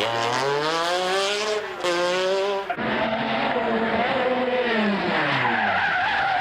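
Group B rally car engines revving hard, their pitch climbing and dropping again and again as they accelerate and change gear. About three seconds in the sound cuts abruptly to a different recording of another run.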